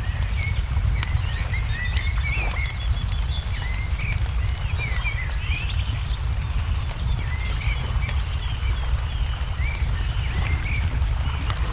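Wood fire crackling with scattered sharp pops over a steady low rumble, while birds chirp and call throughout.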